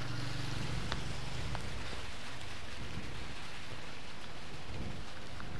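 Steady light rain falling on a wet road and foliage, an even hiss with a few separate drop ticks. A low hum fades out about a second in.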